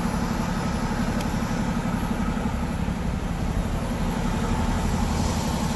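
A vehicle engine idling steadily, a low, even throb.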